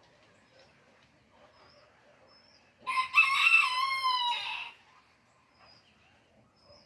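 A rooster crowing once, a single cock-a-doodle-doo about three seconds in that lasts nearly two seconds, over a quiet background with a few faint high chirps.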